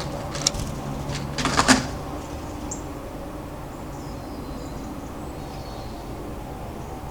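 Two sharp knocks, then a short clatter about a second and a half in, over a steady low hum of city background. A faint short high chirp follows.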